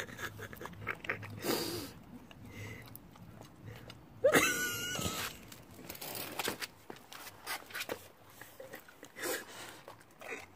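A dog chewing and crunching food, with irregular short clicks and crunches. A brief wavering voice-like sound comes about four seconds in.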